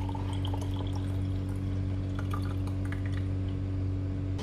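Roasting juices and fat being poured from the roasting tin into a container, a faint trickle and drip, over a steady low hum.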